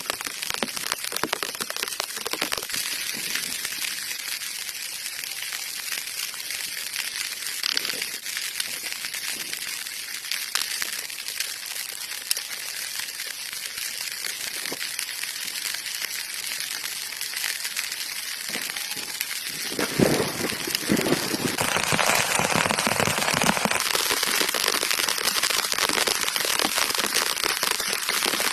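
Steady patter of rain with fine crackling, growing louder and fuller about twenty seconds in.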